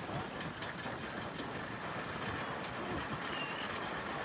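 Veteran car engine chugging with a rapid, uneven low beat and light mechanical clatter.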